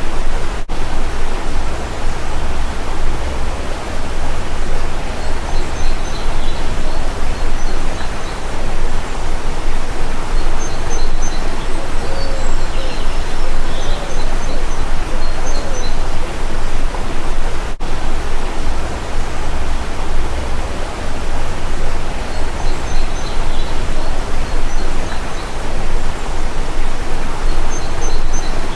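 Stream water rushing steadily, with small birds chirping now and then above it. The sound cuts out for an instant twice.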